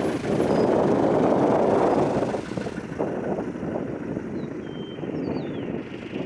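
Aircraft engine noise at an airfield, a steady rushing that drops noticeably about two and a half seconds in, with faint high chirps above it.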